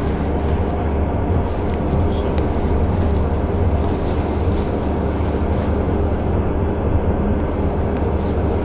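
Steady low rumble of a passenger train arriving at the station, with a few faint clicks.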